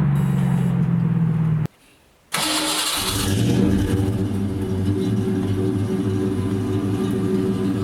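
Fox-body Mustang's 5.0 V8, with shorty headers and a catless H-pipe exhaust, falling back in revs, then, after a brief break, a short rev about two seconds in that settles into a steady idle.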